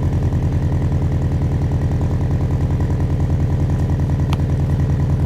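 2013 Scion FR-S's 2.0-litre flat-four boxer engine idling steadily through Tomei unequal-length headers and an Invidia catless exhaust with its dampers fitted, with an even pulsing throb.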